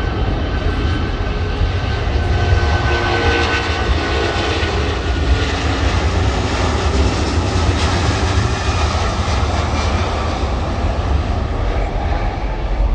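Jet airliner's engines, a loud steady rumble with a hiss, as the aircraft passes; a faint whine sinks slightly in pitch a few seconds in.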